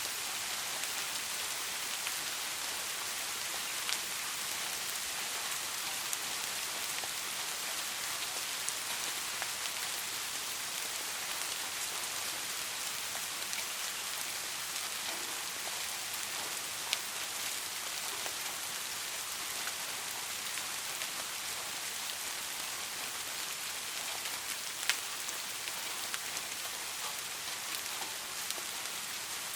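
Steady rain falling, with a few isolated sharp ticks scattered through it.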